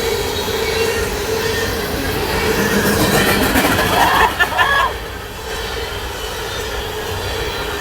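A train running past on the rails: a constant rumble of wheels with a steady ringing tone that fades out about five seconds in.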